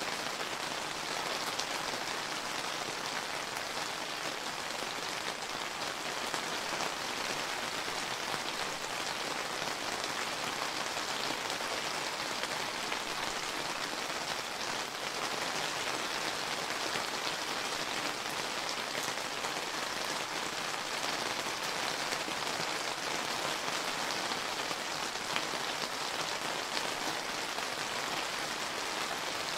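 Steady summer rain falling and pattering on surfaces, an even hiss with fine drop ticks and no thunder.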